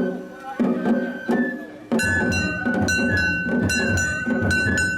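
Japanese festival float music (matsuri-bayashi): taiko drums beating, joined about two seconds in by a bamboo flute holding a long high note.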